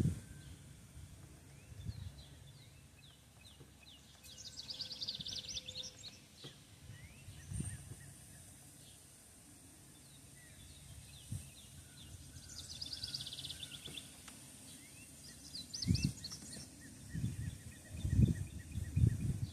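Birds calling in a yard: three times, a quick run of high chirping notes, with single short chirps in between. Several low thumps come near the end and are the loudest sounds.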